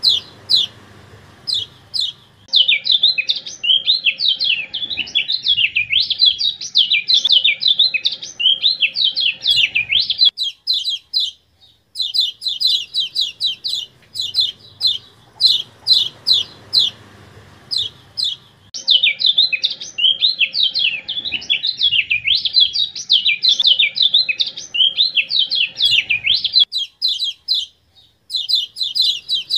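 Kecial kuning (yellow white-eye) song on a repeating training track. A run of rapid, sharp, high chips leads into a long, fast, jumbled warble of several seconds, then a short pause. The pattern repeats twice, the second warble starting a little past halfway.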